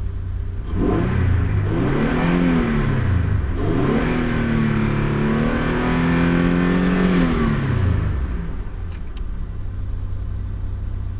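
1996 Mazda MPV's 3.0 L V6 revved twice from idle, heard from inside the cabin: a short rev that rises and falls, then a longer rev held for a couple of seconds before dropping back to idle.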